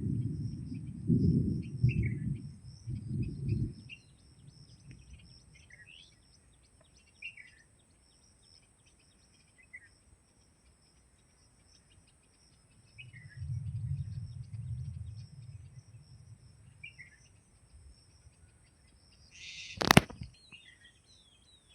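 A bird chirping: short falling chirps every couple of seconds over a steady high insect drone. Low rumbling bursts come near the start and again midway, and there is one sharp click near the end.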